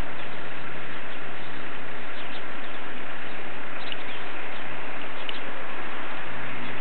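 Steady, even hiss of outdoor noise with a few faint, short bird chirps, clearest about four and five seconds in. A low steady hum sits underneath and drops in pitch near the end.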